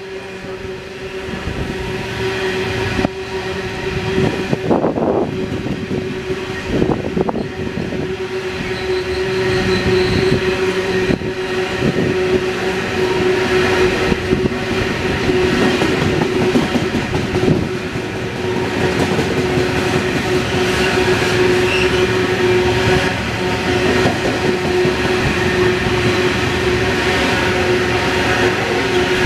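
Loaded coal train of hopper wagons rolling past: a steady rumble and wheel clatter, with a steady tone held right through it. The sound builds over the first ten seconds or so, then stays level.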